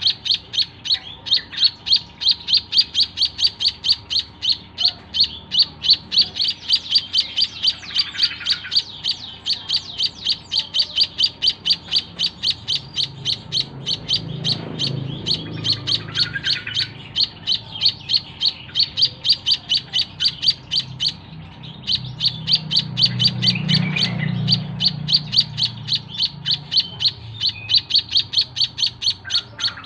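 White-headed munia (emprit kaji) giving a fast, even series of short, high chirps, about three to four a second, with one brief pause about two-thirds of the way through. This is the insistent lovebird-like chattering that a young hand-fed chick makes when hungry.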